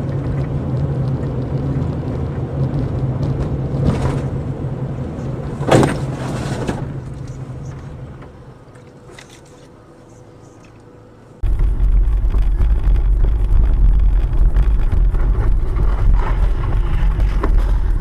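Car driving, heard through a dashcam: steady engine and road noise, with a sudden loud noise about six seconds in. After an abrupt change, a louder deep road rumble from another car's dashcam.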